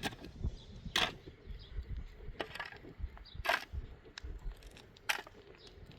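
A few sharp knocks at irregular intervals, the loudest about one, three and a half and five seconds in, with softer clicks between them.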